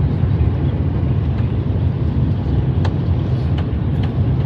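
Steady low rumble inside the passenger cabin of an Airbus A330 airliner around landing, with a few faint ticks.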